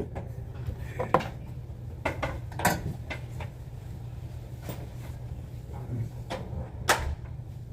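Scattered clicks and knocks, a few sharp ones about a second in, around two to three seconds in and near the end, over a steady low hum.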